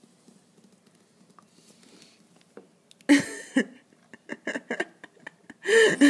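Breath blown hard through a drinking straw in loud gusts, about three seconds in and again near the end, with short clicks between them and voice-like sounds mixed into the last gust. Before that, only faint soft taps.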